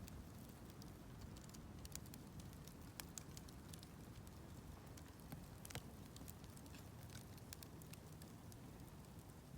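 Wood campfire crackling faintly, with scattered sharp pops and ticks over a low steady rumble.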